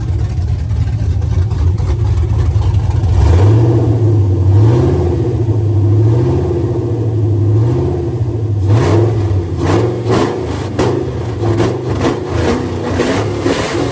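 Truck engine revving: steady at first, the pitch jumps up about three seconds in and then rises and falls in repeated throttle steps. Sharp irregular crackles join in during the second half.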